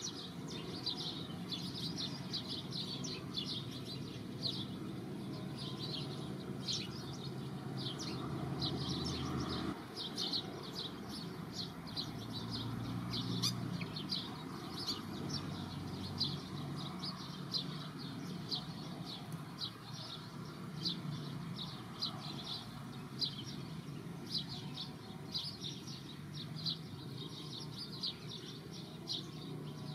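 Small birds chirping over and over, short sharp chirps at about two a second, over a steady low background noise.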